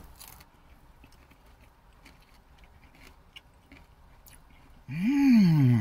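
Chewing a mouthful of crunchy fresh kale salad with almonds: faint small crackles and clicks. Near the end comes a loud hummed vocal sound that rises and then falls in pitch.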